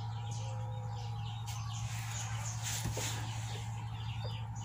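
Small birds chirping intermittently in the background over a steady low hum.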